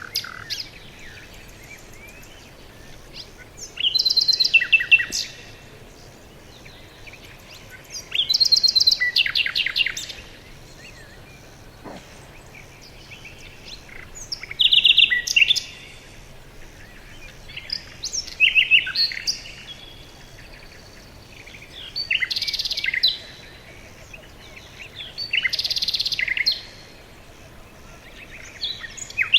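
Songbird singing: short phrases of rapid, high chirping notes, each about a second long and repeated every four seconds or so, over a faint steady hiss.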